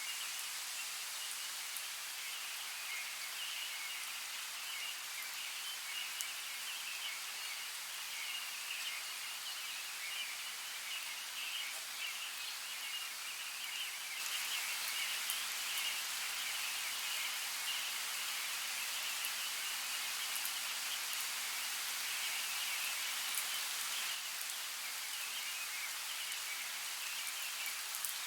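Forest nature ambience: a steady watery hiss, like flowing water or rain, with a high chirring chorus over it and occasional faint ticks. It gets a little louder about halfway through.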